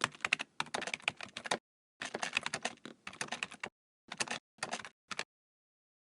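Rapid typing on a computer keyboard: two long runs of keystrokes, then three short bursts, stopping a little after five seconds in.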